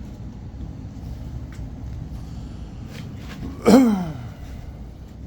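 Steady low rumble, with one short, loud vocal sound from a person, falling in pitch, about three and a half seconds in.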